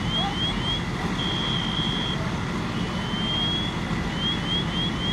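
An electronic alarm cycling through its tones: a slow rising sweep, four quick rising chirps, then a steady high tone about a second long, the cycle starting over about three seconds in. Under it, a steady low rumble of running engines.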